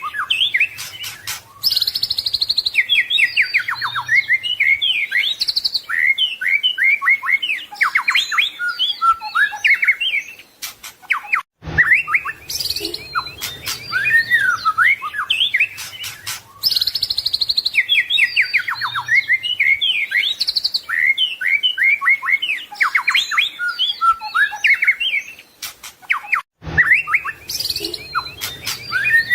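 White-rumped shama singing a fast, varied song of whistles, trills and sweeping notes. It is a looped tutor recording: the same passage of about fifteen seconds repeats after a brief break, about 11 and 26 seconds in.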